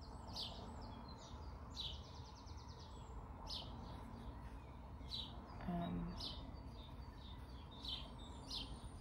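Faint bird chirps, short high calls about once a second with a quick trill near two seconds in, over a low steady hum.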